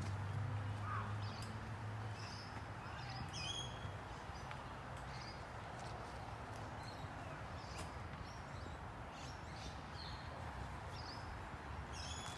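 Small birds chirping in short, high calls scattered throughout, over steady outdoor background noise. A low hum fades out in the first two seconds.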